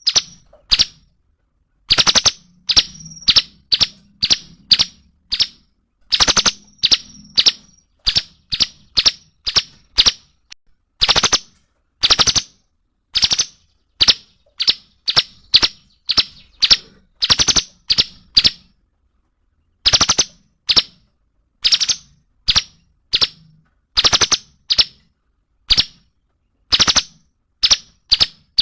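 Cungkok songbird calling loudly in short, sharp, clipped notes, two to four a second in runs broken by brief pauses, some notes ending in a quick high whistle.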